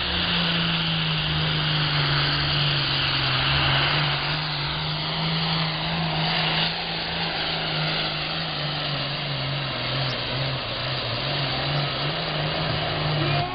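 John Deere 8410 pulling tractor's engine running hard under load as it drags the sled down the track, a steady loud drone that holds its pitch with only small wavers.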